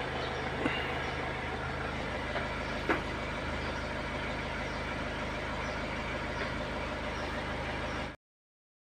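BMW X3 engine idling steadily after months sitting unused, with two light clicks in the first few seconds. The sound cuts off suddenly about eight seconds in.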